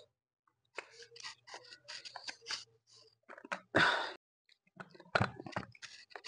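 Close-up mukbang eating sounds: wet chewing and mouth clicks from eating buffalo bone marrow. Louder knocks just before four seconds in and around five seconds in, as the pieces of bone are handled and lifted from the pile.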